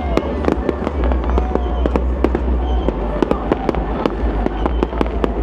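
Fireworks display going off: a dense, rapid run of bangs and crackles, several a second, over a continuous low rumble.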